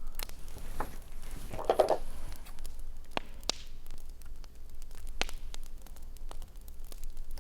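Wood fire crackling, with scattered sharp pops over a low steady hum; a brief soft rustle about two seconds in.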